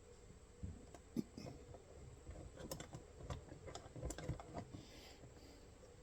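Faint, irregular small metal clicks and taps of hands working a nut onto a bolt while reassembling a steel MB-550 foothold trap.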